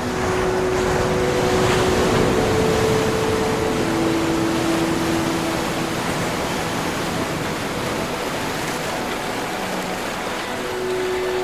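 Ocean waves washing in, with a wave swelling up in the first few seconds and easing off, under soft, slowly changing held music notes.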